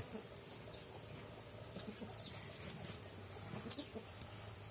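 Faint outdoor background with a few short, scattered bird chirps, some falling in pitch.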